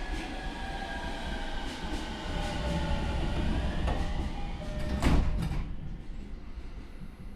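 Inside a JR E231 series commuter car stopped at a station: a steady hum with whining tones gliding downward, then the sliding doors shut with a thud about five seconds in, after which the car sounds quieter.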